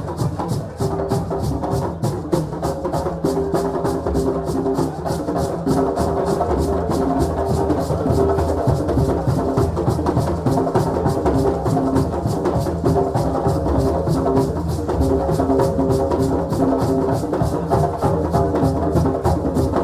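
African percussion ensemble drumming a fast, steady beat, with sustained pitched notes running under the drums.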